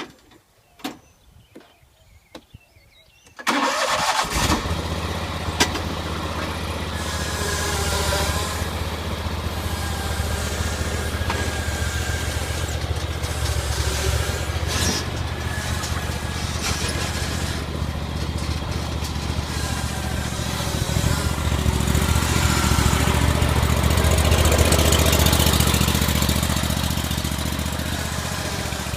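A few faint clicks, then a riding lawn mower's gasoline engine starts suddenly about three and a half seconds in and runs steadily at a low, even pitch, swelling slightly in the second half.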